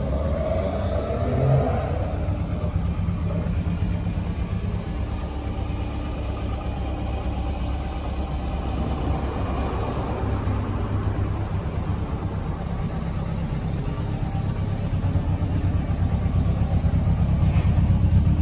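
The Lotus Elan's twin-cam four-cylinder engine idling steadily, growing louder near the end as the exhaust comes closer.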